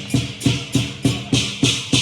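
Lion dance percussion: a Chinese drum beaten in a steady beat of about three strokes a second, each stroke matched by a crash of hand cymbals.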